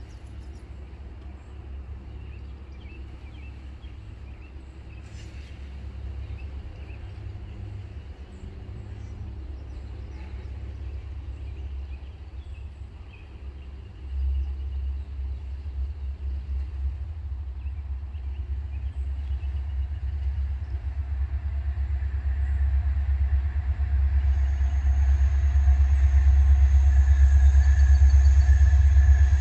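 Low rumble of a distant approaching Norfolk Southern diesel-led freight train, growing steadily louder, with a sudden step up about halfway through. A few bird chirps sound in the first seconds, and faint steady tones join near the end as the train draws closer.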